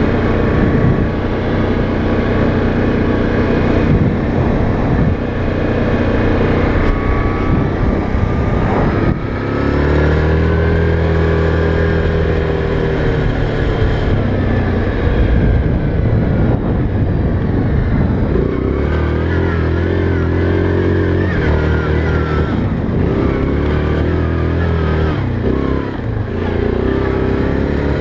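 ATV engine running under a changing throttle while riding, its pitch rising and falling several times, over a steady noise of tyres and wind.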